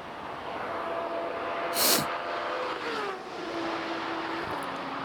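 A car passing at high speed. There is a loud rush as it goes by about two seconds in, then its engine note drops in pitch as it moves away and settles into a steady lower tone.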